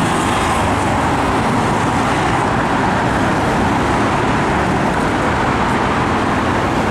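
Hankyu 5300 series electric train running across the Yodo River bridge: a steady, loud rumble of wheels and structure.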